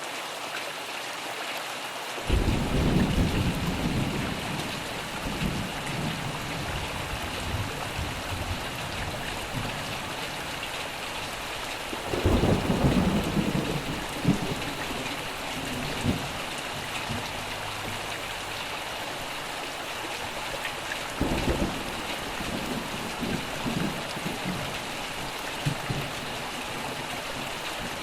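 Steady rain with three rolls of thunder. Each rumble starts suddenly and trails off over several seconds: one about two seconds in, one near the middle, and one about three quarters of the way through.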